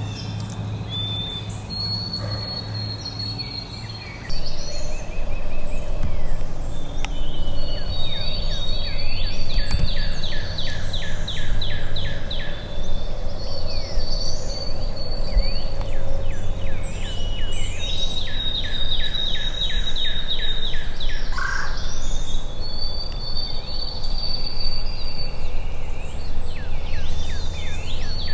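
Songbirds singing in a spring woodland chorus: repeated high trills and held whistles, some trills running down in quick even strokes. The sound gets louder about four seconds in.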